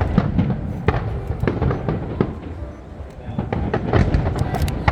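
Fireworks display: shells bursting in a rapid run of sharp cracks and pops over a continuous low rumble of booms.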